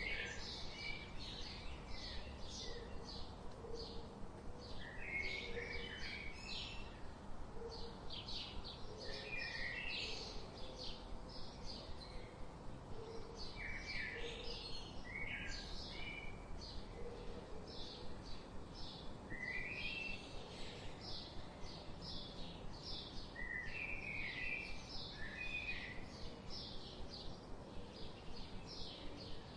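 Birdsong ambience: several small birds chirping and twittering in quick, short high notes throughout, over a steady background hiss.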